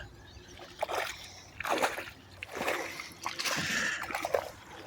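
Water splashing and sloshing in several short, irregular bursts.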